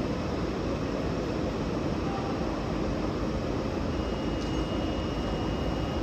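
Steady hum and rush of a stationary SNCF TGV high-speed train's onboard equipment running at the platform. A faint thin high tone joins about four seconds in.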